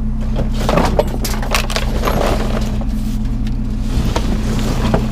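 Clattering and knocking of scrap items being handled and shuffled through, several short knocks close together, over a steady low engine hum.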